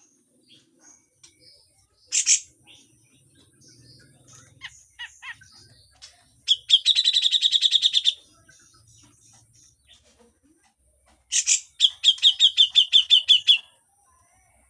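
Grey-cheeked bulbul (cucak jenggot) giving harsh, rasping chatter: a sharp note about two seconds in, then a rapid rattle of about ten notes a second lasting over a second. Another sharp note and rattle follow near the end.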